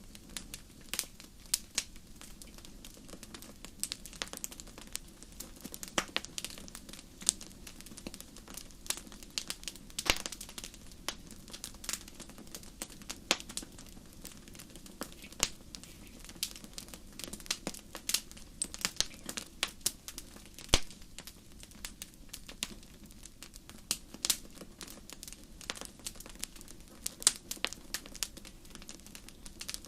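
Wood fire crackling: irregular sharp pops and snaps, several a second, over a soft steady low rumble.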